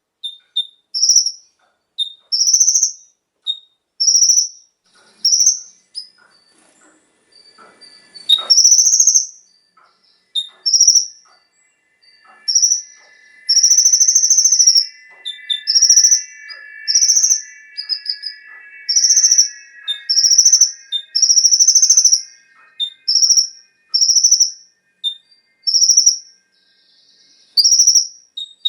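A kolibri ninja (konin) sunbird calling over and over: short, high, sharp notes about once a second, with a lower, rattling trill held through the middle stretch. A single sharp click comes about eight seconds in.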